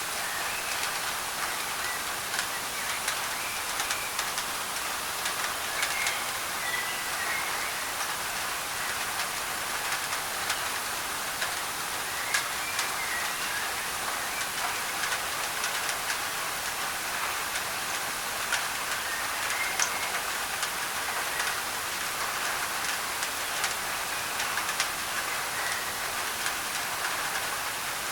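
Rain falling on a thin tin roof, mixed with white noise: a steady hiss with many sharp drop ticks scattered through it.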